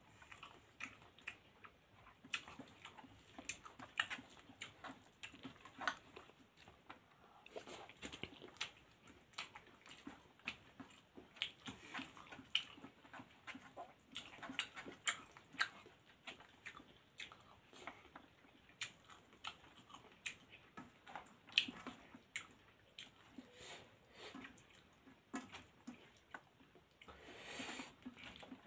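Close-miked mouth sounds of someone eating rice and dal by hand: steady wet chewing with many sharp lip smacks and sticky clicks, and the squish of fingers working the rice on a steel plate.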